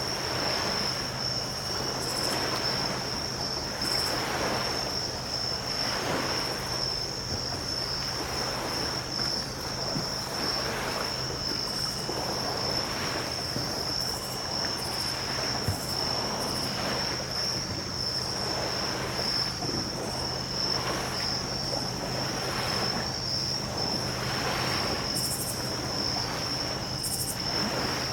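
Small waves washing onto the shore, rising and falling every second or two, with a steady high chirring of night insects over them and a faint low steady hum underneath.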